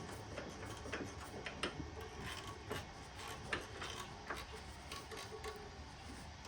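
Irregular light metallic clicks and taps of hand tools on a furnace burner's brass fitting clamped in a bench vise, as it is worked off the steel bar, with a faint brief squeak now and then.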